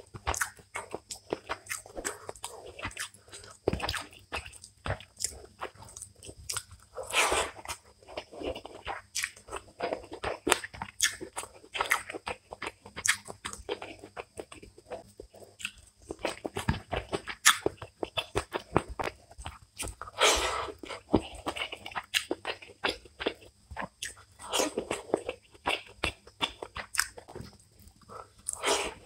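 Close-miked eating sounds of a person chewing mouthfuls of rice and fish curry: a steady run of short, wet mouth clicks, with a few louder crunchy bites.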